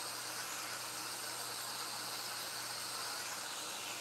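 Eggplant and vegetables sizzling steadily in a wok as they fry, an even hiss.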